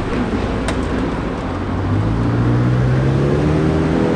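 Car engine pulling away, its note rising slowly from about two seconds in over a steady background of other running cars.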